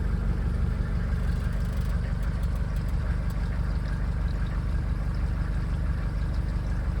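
Mercedes-Benz 307D T1 van's four-cylinder diesel engine idling steadily with an even clatter, still cold from a start without choke after sitting for weeks.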